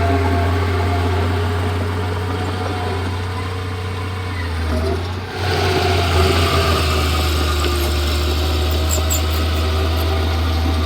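Komatsu D31P bulldozer's diesel engine running steadily, easing off about four seconds in, then picking back up a second or so later.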